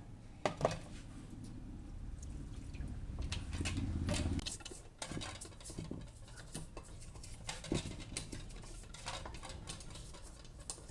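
Light, scattered clicks and taps of small metal parts and hand tools being handled during work on a motorcycle clutch arm, with a low rumble swelling over the first few seconds and stopping at about four and a half seconds in.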